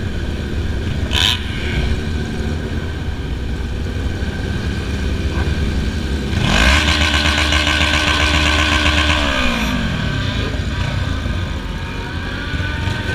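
Motorcycle engine running on the road under a steady low rush. About six seconds in it revs up, holds high for a few seconds, then winds down near ten seconds.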